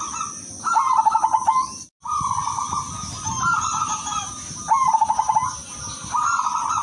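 Perkutut (zebra dove) cooing: repeated phrases, each a held note followed by a quick run of short coos, about one phrase every second and a half, over a steady high hiss. The sound cuts out for an instant about two seconds in.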